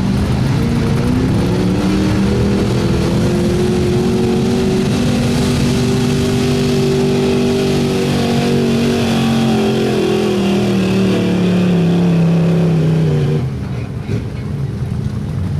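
A 1985 Chevrolet pickup's stock gasoline engine running at full throttle while pulling a sled. The engine note climbs over the first few seconds, holds, then sags slowly under the load, and drops off sharply near the end as the throttle is let off.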